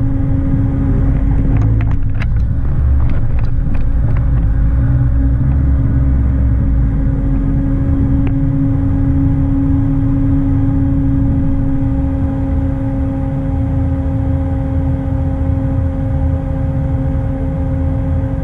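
A 4x4's engine running steadily with a low rumble and a constant hum. A cluster of knocks and rattles comes about two to four seconds in, while the vehicle moves over rough ground, and the engine then runs on evenly while the vehicle stands still.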